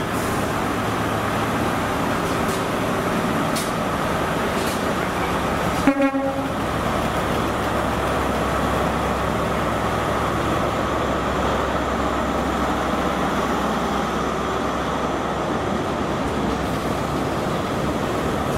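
A train running steadily with a low hum, and a short horn toot about six seconds in.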